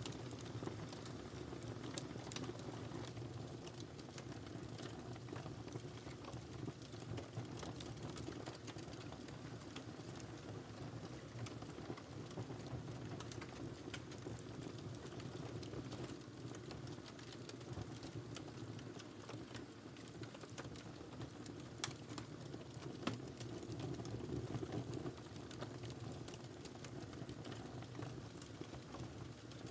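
Wood fire crackling in a fireplace: a steady low rushing of the flames with frequent irregular sharp crackles and pops.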